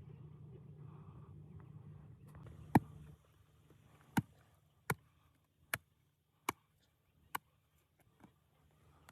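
A series of six sharp knocks, evenly spaced a little under a second apart, the first the loudest and the rest fading, over a low hum that stops just before the knocks get going.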